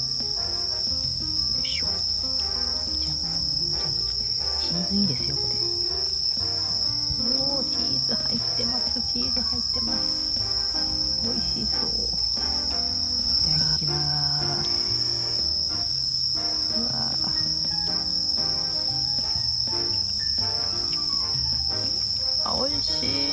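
Steady chorus of crickets, a continuous high shrill trill that does not let up.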